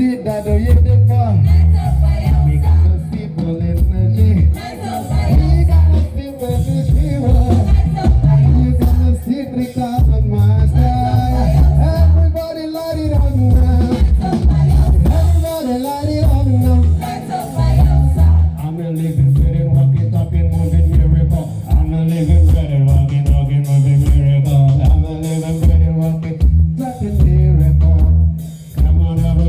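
Live gospel band with a singer, played loud through a PA system, with heavy bass under the melody.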